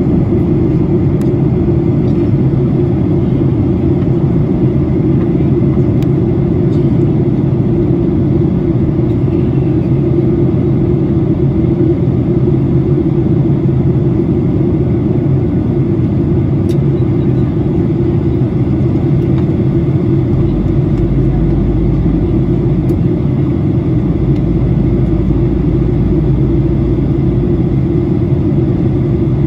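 Steady cabin noise inside a Boeing 737-800 in descent: the rumble of its CFM56 engines and the rush of air past the fuselage. A deeper rumble swells about two-thirds of the way in and eases off again.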